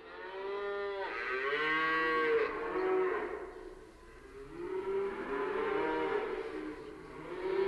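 Cattle mooing: two long, drawn-out moos, with a third starting near the end.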